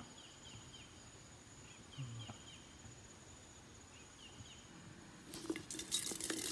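Quiet outdoor ambience with a steady high insect drone and a few short groups of quick chirps. Near the end, loud rustling and crackling close to the microphone takes over.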